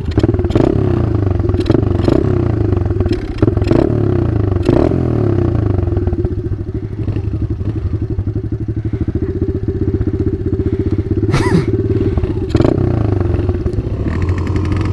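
Small four-stroke single-cylinder off-road engine idling steadily, with a dozen or so sharp clacks scattered through it.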